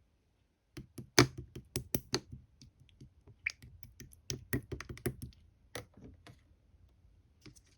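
Red clear slime being squished and poked by hand, giving quick, irregular sticky clicks and pops, loudest about a second in and thinning out near the end.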